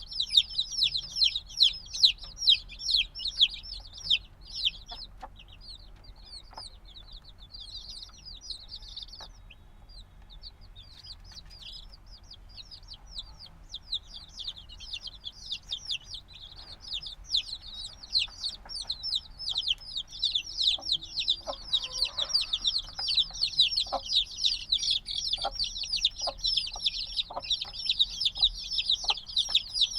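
Newly hatched chicks peeping in a crowded chorus of rapid, high, downward-sliding peeps. The chorus thins out a few seconds in, then builds back up to a dense chorus from about halfway. Faint light taps are heard now and then underneath.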